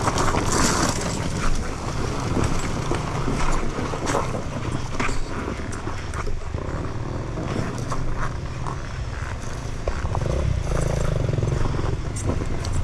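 Sherco 300 two-stroke enduro motorcycle engine running at low revs, heard from the rider's helmet, with many short knocks and scrapes over it. The engine comes up a little about ten seconds in.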